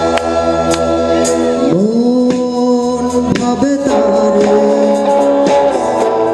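A Bengali song performed live: a singer slides up into long held notes about two seconds in, over band accompaniment.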